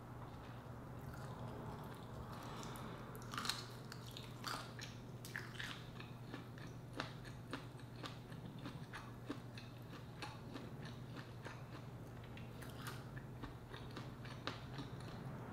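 A person chewing and biting shrimp close to the microphone: irregular small wet clicks and crunches, one louder bite about three and a half seconds in, over a faint steady low hum.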